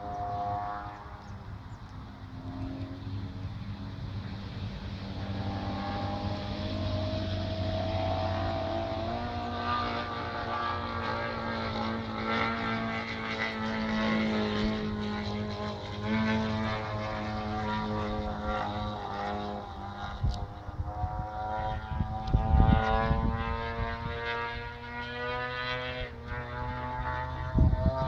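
Radio-controlled model airplane's engine running in flight, its pitch rising and falling as it flies about. A few bursts of low rumble come in the second half.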